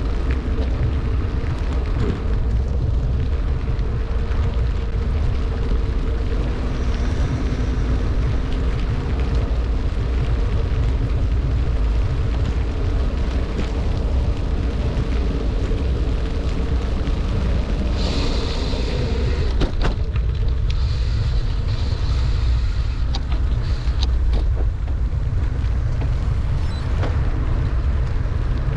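Steady low rumble of wind buffeting the microphone of a bicycle descending at speed in heavy rain, with a brighter hiss for a couple of seconds about two-thirds through.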